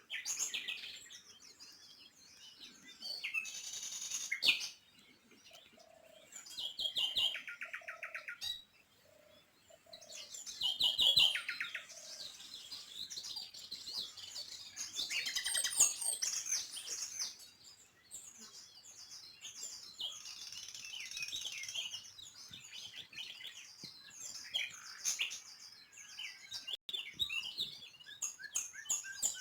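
Small birds chirping and singing, several calls overlapping, with a few quick rattling trills and a run of short lower notes partway through.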